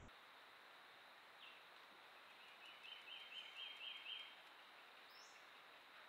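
A bird calling a quick series of about eight short down-slurred notes, about five a second, growing louder, over a faint steady hiss.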